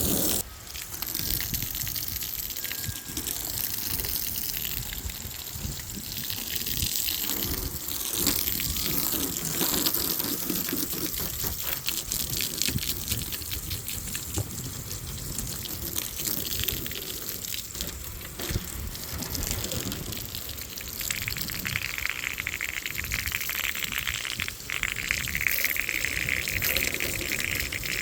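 Water from a garden hose with no spray nozzle, running and splashing over a car's body as it is rinsed down. About three quarters of the way through, the hiss becomes steadier and higher.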